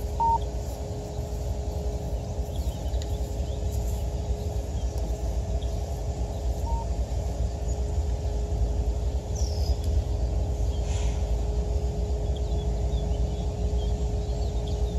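Low steady rumble of a loaded coal train's diesel locomotives approaching in the distance, with a faint steady hum, a few bird chirps and two short beeps.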